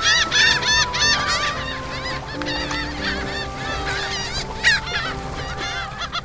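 A bird calling over and over in short calls that rise and fall, over background music with held notes.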